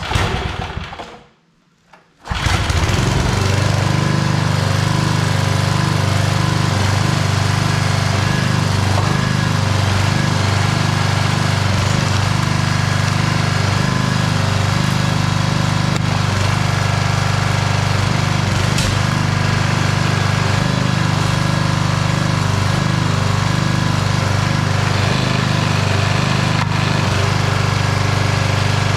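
Old Briggs & Stratton 5 hp single-cylinder engine on a homemade log splitter running steadily, coming in abruptly about two seconds in after a short quiet stretch.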